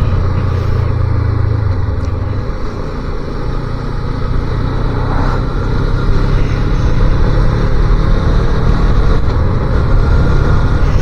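250cc motorcycle engine running at road speed. It eases off about two seconds in and picks up again from about four seconds.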